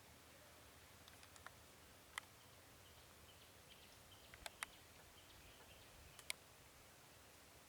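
Near silence: a faint steady hiss with a handful of sharp, short clicks scattered through it and faint high chirps in the middle.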